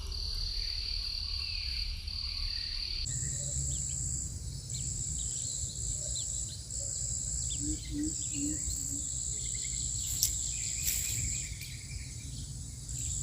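Crickets or similar insects trilling steadily in long, high-pitched runs, the pitch jumping higher about three seconds in, with faint short chirps scattered through.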